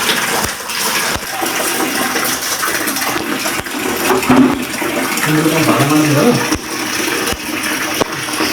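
Water running steadily from a tap and splashing, with a person's voice faintly heard in the middle.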